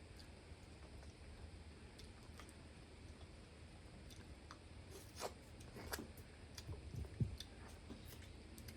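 Person eating mud crab: quiet chewing and scattered small clicks. A cluster of louder clicks and cracks, with a low thump, comes about five to seven seconds in.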